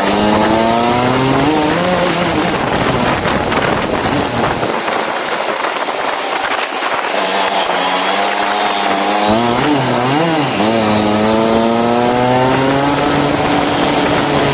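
Go-kart engine revving up as it accelerates, falling away about two seconds in, then climbing again from about seven seconds after a brief wobble in pitch, over a constant rushing noise.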